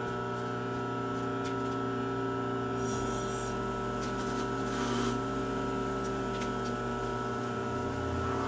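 Bridgeport milling machine motor running with a steady hum of several fixed tones. About three seconds in, a deeper rumble joins it, with scraping and rubbing noises, as the cutter works metal.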